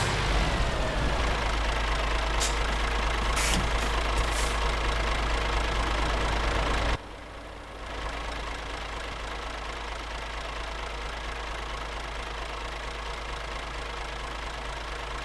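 Scania R560 truck's V8 diesel engine running steadily, with a few clicks in the first half; the sound drops abruptly to a quieter steady hum about seven seconds in.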